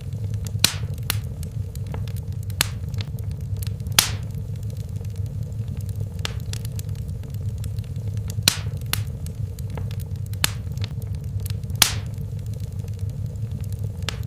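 Wood fire in a fireplace crackling, with irregular sharp pops, a few of them louder, over a steady low rumble of burning.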